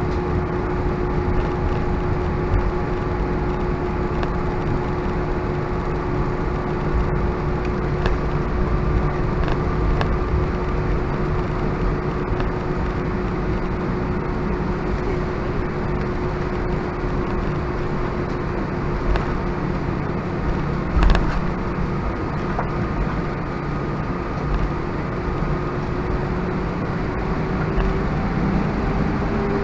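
Cabin noise of an Airbus A320-232 taxiing, its IAE V2500 engines near idle: a steady hum and rumble with one short knock about 21 seconds in. The engine tone rises a little near the end.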